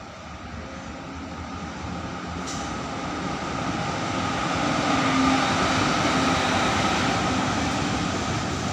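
Electric goods train passing through the station without stopping: the locomotive and its wagons grow louder over about five seconds as they approach, then hold steady as the train runs by.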